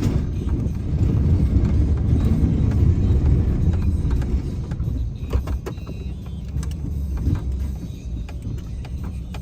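Plow vehicle's engine running with a steady low rumble, and scattered knocks and rattles over it. The rumble eases off somewhat about halfway through.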